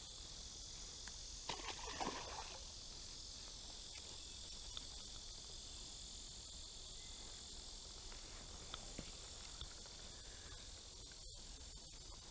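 Steady, high-pitched chorus of insects such as crickets or katydids, with a few faint clicks and small rustles.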